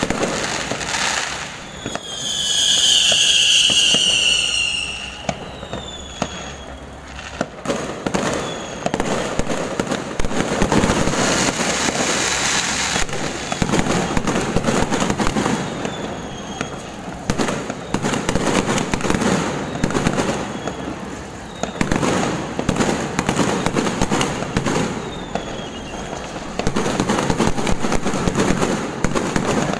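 Fireworks display going off: repeated bangs over continuous crackling from the bursting shells. A long, high whistle starts about two seconds in and lasts some three seconds, and brief falling whistles cut through several times later.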